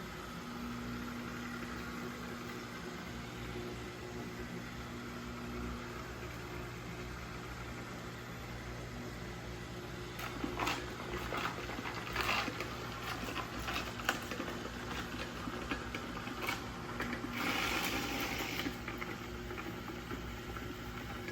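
Roborock robot vacuum's motors running steadily as it drives back to its docking station. In the second half come several knocks and short bursts of noise as it maneuvers toward the dock.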